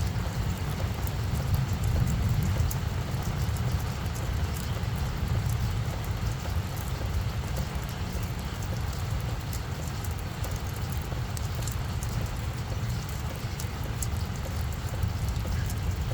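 Steady rain falling, with many fine drop ticks over a strong, steady low rumble.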